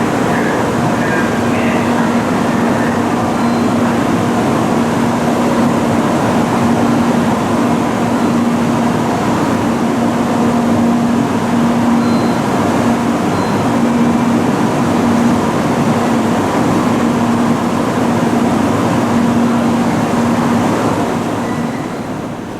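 N700 series Shinkansen running noise heard from inside the passenger cabin: a steady rushing roar with a low hum that swells and fades about once a second. The roar eases off near the end.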